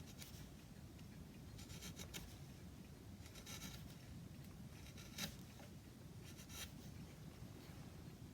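Faint scratchy strokes of a hand tool working wood, coming in four short runs a second or two apart.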